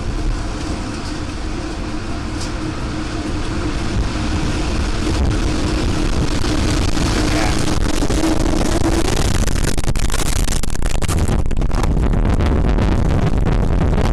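Tornado wind striking a house, heard as a dense rumble on the microphone that grows louder. A steady hum runs under it and fades out about nine seconds in, after which the wind turns into heavy buffeting with crackling.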